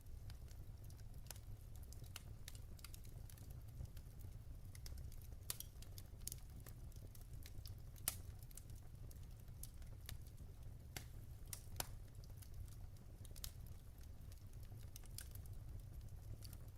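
Wood fire burning in a fireplace: a soft low rumble of the flames with irregular crackles and sharp pops from the logs, the loudest pops about 8 and 12 seconds in.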